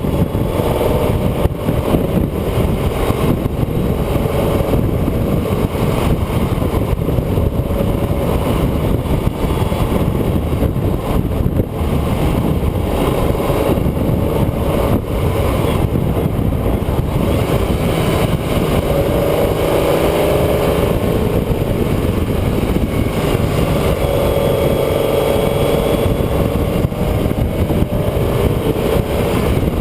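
Onboard sound of a road vehicle driving a winding road: steady wind and road rumble, with the engine note rising and falling.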